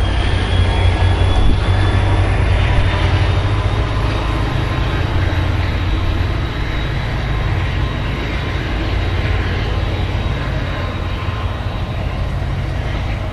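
Passenger train running on the rails out of sight: a steady low rumble with a faint, slowly rising high whine, easing off a little in loudness.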